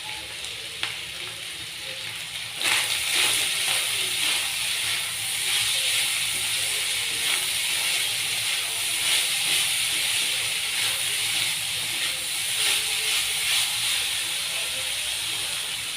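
Minced chicken, potato and onion frying in oil in a pan, sizzling steadily. The sizzle jumps suddenly louder and brighter about two and a half seconds in.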